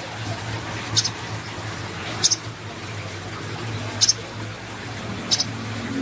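Young cucak koreng (striated grassbird) giving short high chirps, four in the space of a few seconds, over a steady low hum.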